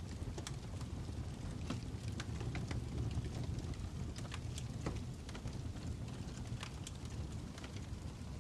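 Fire crackling: a steady low noise with irregular, scattered sharp snaps and pops.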